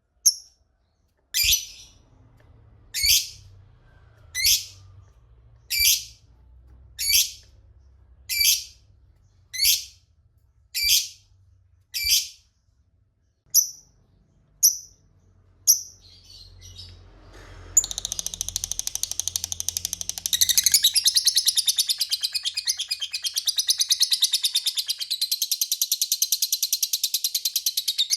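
Lovebird calling: a string of single sharp, high chirps about one every second and a half, then, a little over halfway, a long rapid chattering trill (the 'ngekek' that keepers prize).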